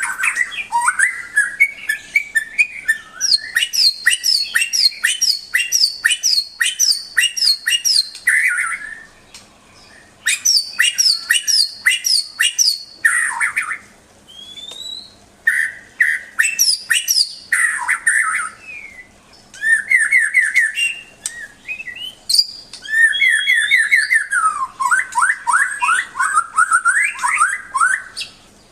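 White-rumped shama (murai batu) singing: fast runs of repeated notes, rapid trills and whistled slurs, delivered in phrases with short pauses between them.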